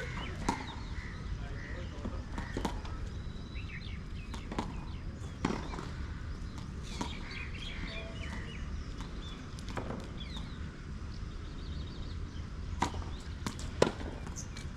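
Tennis balls struck by rackets and bouncing on the court, a sharp pop every second or few, irregularly spaced, the loudest near the end, over a steady low rumble.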